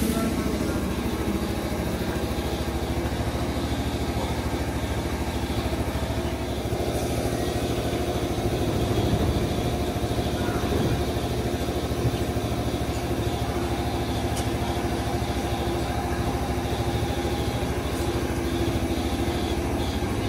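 JR Nara Line electric commuter train humming steadily while standing at the platform, then starting to pull away near the end.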